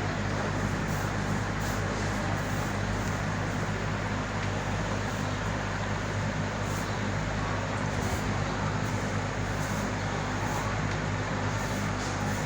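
Aquarium equipment running: a steady low electric hum under a constant hiss of moving water.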